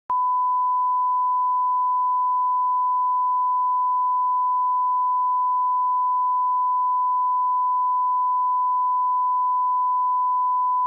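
Continuous 1 kHz sine-wave line-up tone at −18 dBFS, the reference level for calibrating audio. It starts abruptly right at the beginning and holds perfectly steady in pitch and level.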